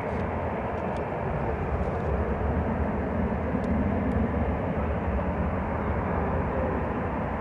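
Airliner jet engines running steadily as an aircraft taxis, a dense rumble that swells slightly about halfway through.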